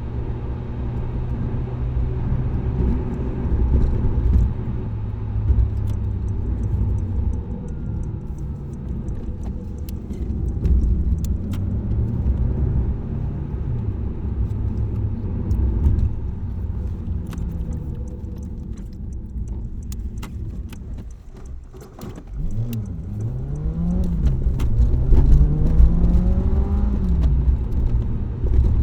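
Car engine and exhaust (muffler) sound on a drive, a steady low rumble while cruising. About two-thirds of the way through it goes quiet as the car eases off, then it accelerates hard, the pitch climbing and dropping back several times as it shifts up through the gears. Scattered light clicks and rattles come from inside the car.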